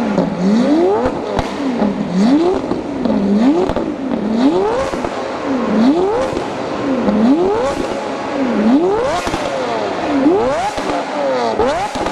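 Lamborghini Aventador V12 through a Kreissieg valvetronic exhaust, revved over and over: each rev rises sharply in pitch and falls back, about nine times, one every second and a bit, with a high-pitched howl.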